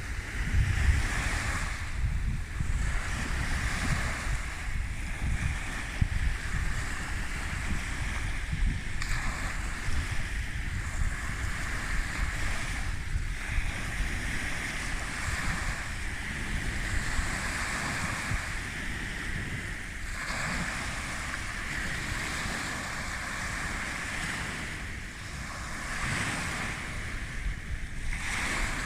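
Sea waves breaking and washing onto the shore, swelling every few seconds, with wind rumbling on the microphone.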